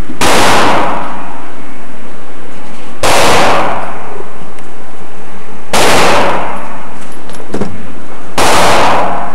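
Four loud gunshots in a row, evenly spaced about two and a half to three seconds apart, each followed by a short echoing tail.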